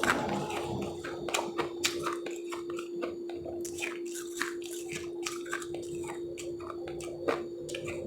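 Close-miked biting and chewing of powdery refrozen ice chips: many irregular crisp crunches. A steady hum sits underneath.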